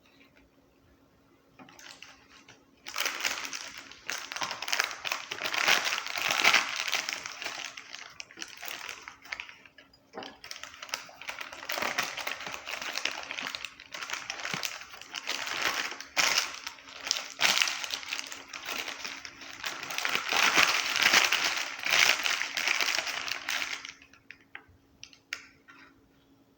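Close crinkling and rustling of packaging, in uneven waves with small clicks, starting about three seconds in and stopping a couple of seconds before the end.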